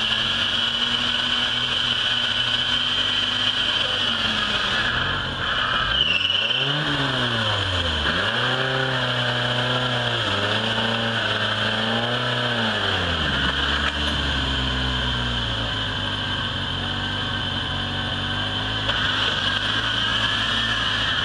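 Suzuki Samurai 4x4's engine working as it climbs a steep muddy bank, the revs rising and falling in several surges around the middle, then settling lower. A steady high hiss runs underneath.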